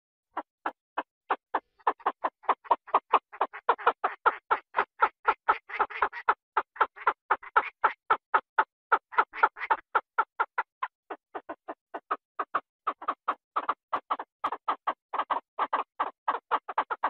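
A rapid, even series of short animal calls, several a second, continuing throughout after a brief silence at the start.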